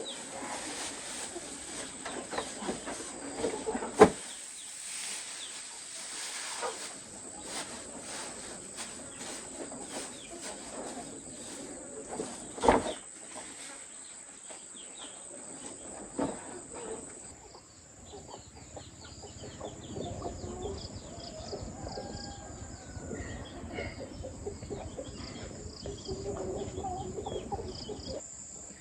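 Outdoor farmyard ambience: a steady high insect-like buzz, with scattered animal and bird sounds. Three sharp knocks stand out, the loudest about four seconds in.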